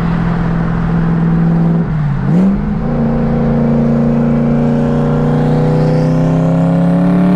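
Car engine running under load: its note dips and recovers about two seconds in, then climbs slowly and steadily as the car accelerates.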